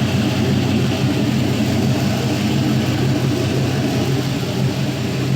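Chevrolet 4.8L Gen III LR4 V8 running steadily at idle on an engine test stand, with an even low hum.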